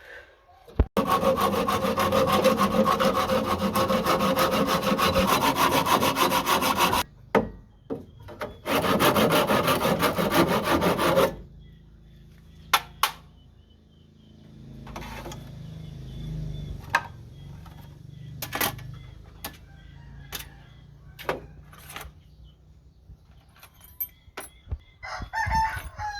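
A saw cutting through wood in two long, steady runs, the second shorter. After it comes a series of scattered knocks and taps.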